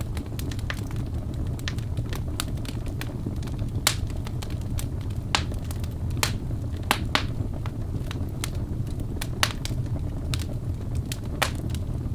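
Wood fire burning in a fireplace: a steady low rumble of flames with irregular sharp crackles and pops from the logs, several standing out louder.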